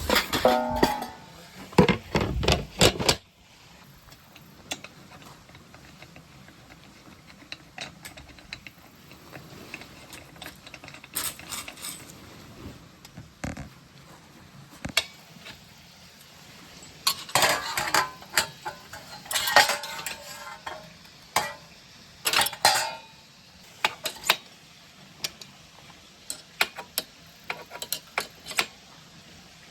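Cooking utensils and dishes clinking, knocking and scraping, with a louder clatter in the first few seconds and scattered clinks after that.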